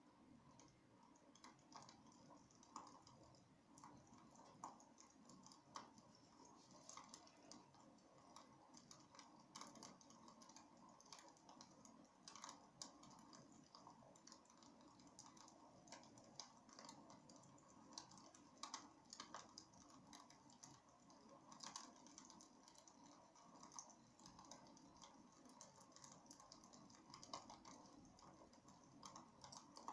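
Wood fire in a fireplace crackling faintly, with many small irregular pops and snaps over a soft hiss.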